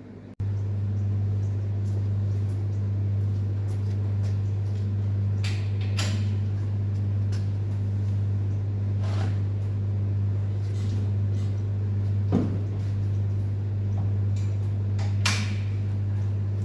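A steady low machine hum that starts abruptly and holds level, with scattered light clicks and a couple of sharper knocks.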